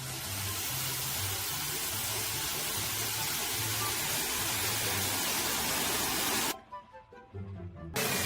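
A steady, loud rushing noise over background music with a repeating bass line. About two-thirds of the way through it cuts out for a second and a half, leaving only the music, then comes back.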